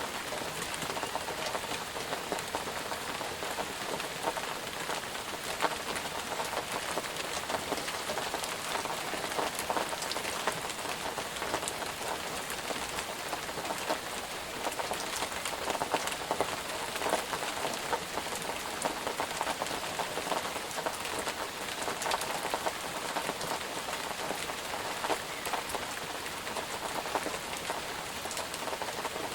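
Steady rain falling on a surface, a dense hiss full of the small ticks of individual drops.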